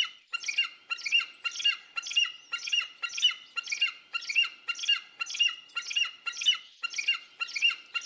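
Eagle calling: a long run of high, piping squeals repeated a little under three times a second, with a brief break near the end.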